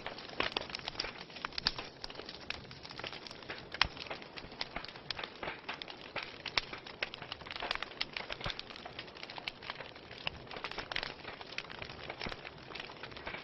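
Wood fire crackling steadily, with many irregular sharp pops over a soft hiss and one louder pop about four seconds in.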